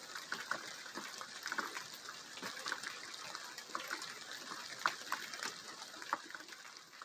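Steady rain falling, a hiss with many separate raindrops tapping sharply through it, beginning to fade near the end.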